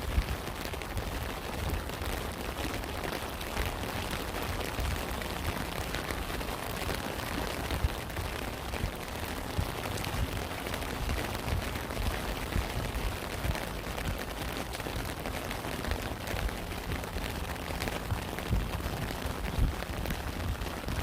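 Steady rain, with a dense scatter of individual drops striking a nearby surface and low thumps beneath; a couple of sharper, louder drop hits stand out, one just after the start and one about eight seconds in.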